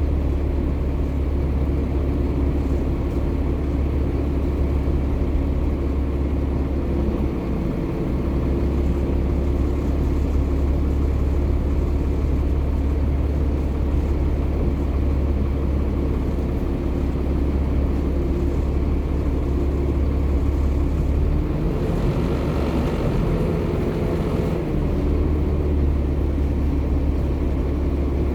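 Volvo B7TL double-decker bus's six-cylinder diesel engine running steadily under way, a continuous low drone. Its note changes briefly about eight seconds in, and again for a few seconds a little past twenty seconds in.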